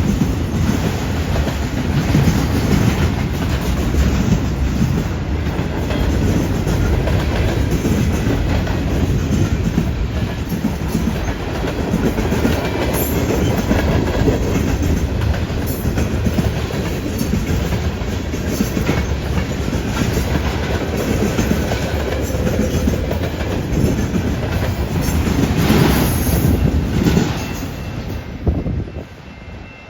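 CN freight train's cars rolling past, wheels clacking and rumbling steadily. The noise falls away about two seconds before the end as the train moves off.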